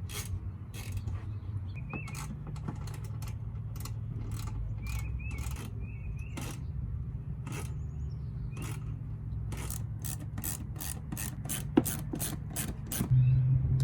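A run of sharp mechanical clicks, with some rubbing and a few faint squeaks, from hand work on the car's front bumper and trim; the clicks come irregularly at first, then faster and more evenly, about four or five a second, near the end. A steady low hum sits underneath.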